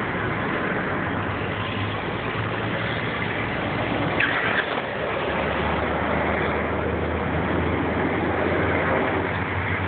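A vehicle engine running steadily under a broad rushing noise. Its low hum deepens and grows louder about five seconds in, and a brief high squeal sounds about four seconds in.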